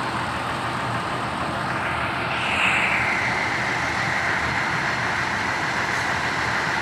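Bus engine running steadily, with a higher whine coming in about two and a half seconds in, sliding slightly down and then holding.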